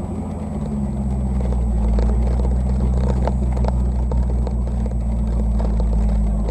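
A car engine running steadily at idle, with a few light clicks about halfway through.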